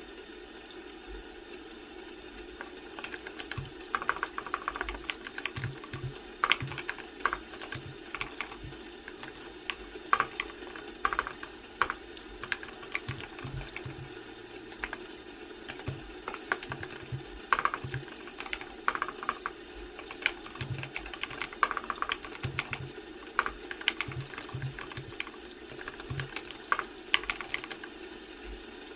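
Typing on a computer keyboard: irregular runs of key clicks, starting about three seconds in, over a steady background noise.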